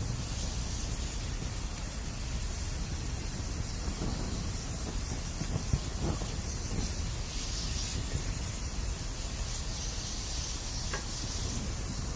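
Bamboo burning in a campfire: steady hissing as moisture steams out of the bamboo, swelling in the second half, with a few sharp crackles about four to six seconds in and a brief thin whistle near the end.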